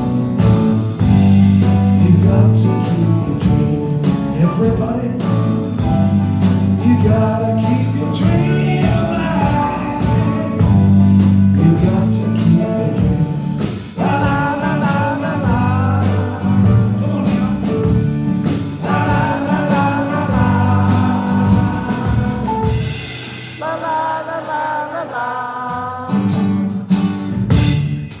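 Live band playing a song: drum kit, bass and guitars, with a wavering lead melody line over them from about halfway through. About five seconds from the end the bass and drums drop out, leaving the lighter melody parts before the band comes back in.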